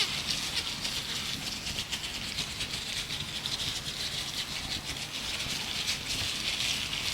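Gloved hands rubbing and crinkling, a dense steady crackle of many tiny clicks.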